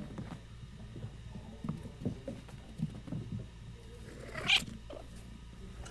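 A domestic cat giving one brief rising call about four and a half seconds in, over a steady low hum and a few soft knocks.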